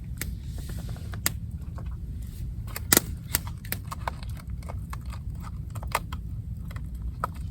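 Campfire wood crackling and popping in irregular sharp snaps, one louder pop about three seconds in, over a steady low rumble.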